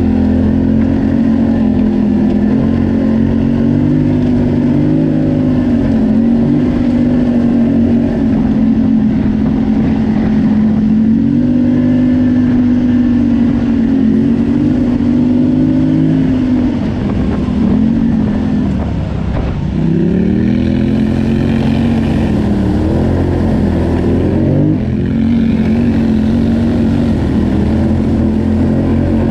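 ATV engine running under throttle, its pitch rising and falling as the rider works the throttle. About two-thirds of the way through it eases off and drops in pitch, then revs back up.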